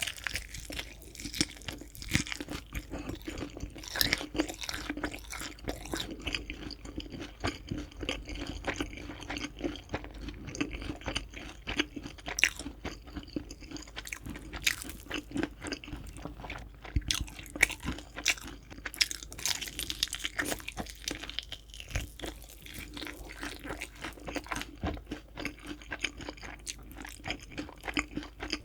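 Chewing crispy fried chicken: a dense, continuous run of crackling crunches as the crust is bitten and chewed.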